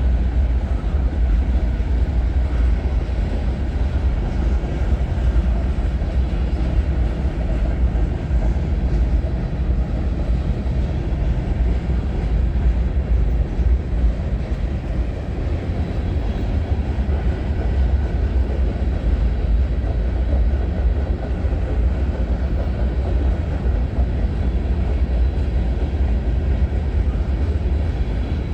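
Freight train cars rolling past: a steady, continuous rumble of steel wheels on the rail, heaviest at the low end.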